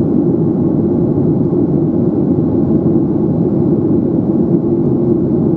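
Steady low cabin roar of a Boeing 737-800 in flight after takeoff: engine and airflow noise heard from inside the cabin, even and unchanging.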